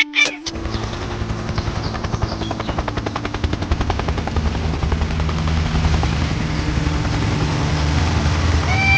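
The small engine of a home-built mini tractor catches about half a second in and then runs steadily with a rapid, even chatter of firing pulses, growing slightly louder towards the end.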